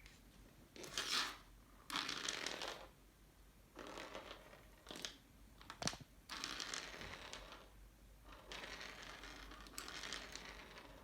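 Repeated bursts of rustling and crinkling, each lasting about a second, with one sharp click about six seconds in.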